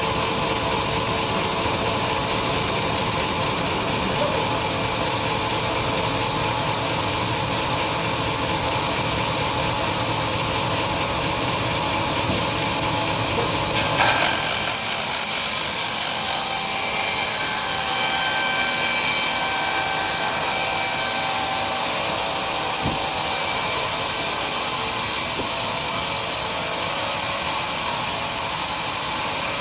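A large log band sawmill running and cutting through a big log, a steady mechanical noise with a few held tones. About halfway through the sound changes suddenly, with a short louder jolt, then goes on brighter and hissier.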